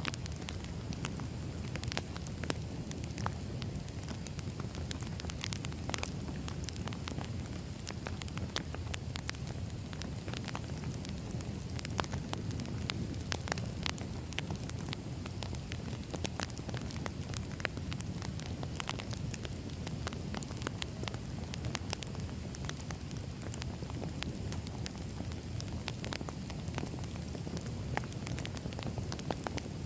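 Wood fire burning: firewood crackling and popping in irregular sharp snaps over a steady low rumble of the flames.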